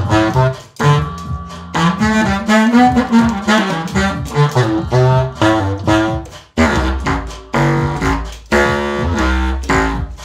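Eb contra-alto clarinet playing a melody of short and held notes over a looped backing beat with drums and a low bass line.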